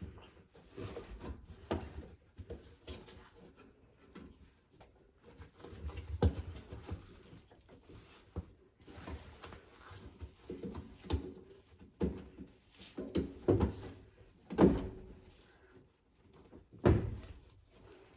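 Hands working on a front-loading washing machine during a door seal replacement: irregular knocks, clicks and rubbing handling noise, with the loudest knocks in the last few seconds.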